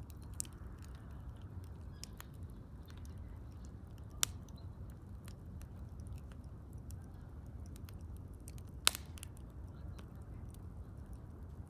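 Wood fire crackling: scattered small crackles over a steady low rumble, with two sharp louder pops about four and nine seconds in.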